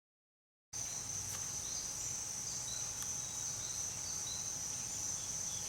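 Total silence at the very start, then steady background ambience with a continuous high-pitched insect trill, like crickets, and a few faint short chirps.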